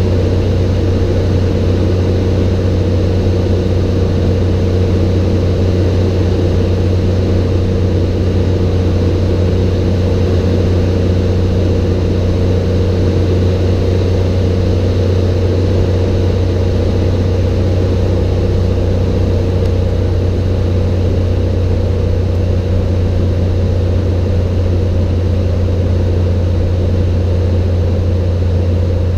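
Cessna 182's piston engine and propeller running steadily in flight, a loud, even drone with a strong low hum.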